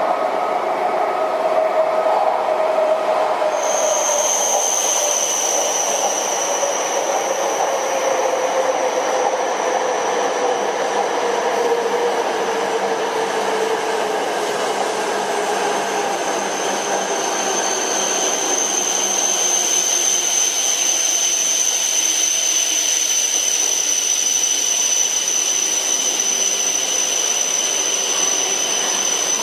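E5 series Shinkansen bullet trains running through a station at speed: a steady rush of wheel and air noise with a whine that falls slowly in pitch over the first half. A thin, high squeal comes in a few seconds in and holds to the end.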